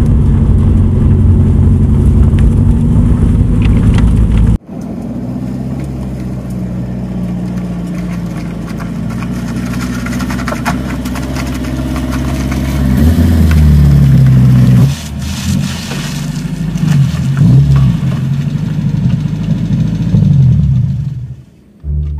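Toyota KE70 Corolla's engine running as the car drives, loud and steady at first. About four and a half seconds in it cuts abruptly to a quieter engine sound, which then surges and drops unevenly through the second half before fading out near the end.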